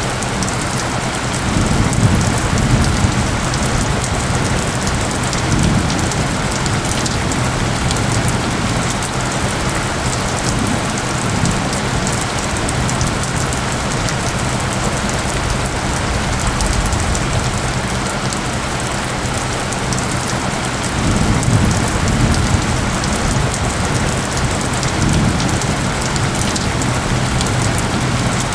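Steady heavy rain falling, with low rumbles of thunder swelling about two seconds in and again around twenty-one seconds in. Under the rain runs a low hum of synthetic isochronic tones.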